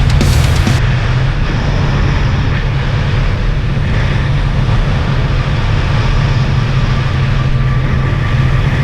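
Sea-Doo jet ski engine running steadily at speed, a constant low drone under a rushing noise.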